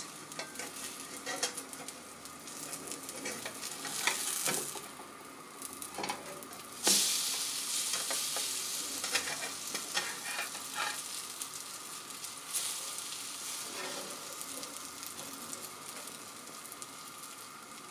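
Egg-soaked bread (French toast) sizzling in a nonstick frying pan, with scattered scrapes and taps of a spatula as the slices are turned. The sizzle swells suddenly about seven seconds in, then slowly eases.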